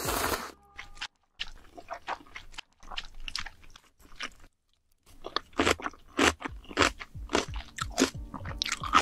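Close-miked mouth sounds of eating kimchi. A slurp from a spoon ends about half a second in, followed by quiet chewing. After a short pause, crisp crunches of chewed kimchi come about twice a second.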